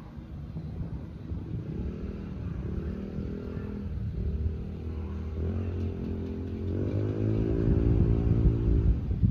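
MJX HyperGo H12Y 1:12-scale RC truck's electric motor and drivetrain running under throttle, the pitch rising several times as it speeds up, louder toward the end.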